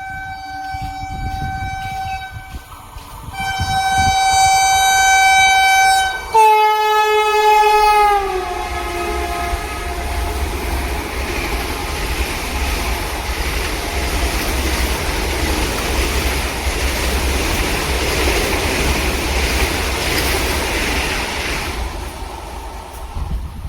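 Electric locomotive horn sounded in two long steady blasts, then a louder third blast whose pitch drops as the locomotive passes at speed. The train's wagons then rush by with a steady rumble and rail clatter, which falls away near the end.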